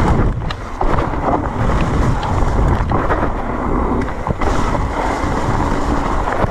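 Wind buffeting the microphone while an e-mountain bike rides down a wet, slippery trail in heavy rain, with tyre noise and scattered knocks and rattles from the bike over bumps.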